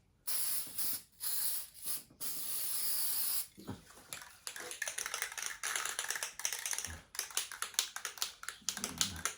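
Aerosol spray paint can hissing in several short bursts and one longer pass over the first three and a half seconds. This is followed by a quick run of clicks and rattles.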